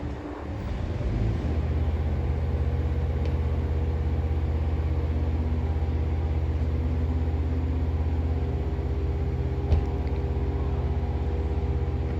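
Steady low mechanical rumble with a hum, swelling about a second in and then holding level, with one sharp click near the end.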